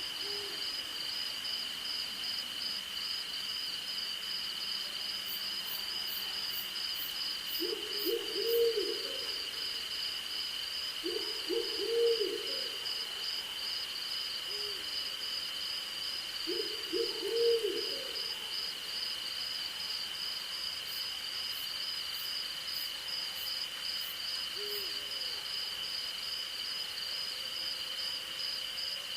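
An owl hooting in three short runs of several low hoots, over the steady high chirring of crickets and other night insects, one continuous and one pulsing. A few fainter single hoots fall in between.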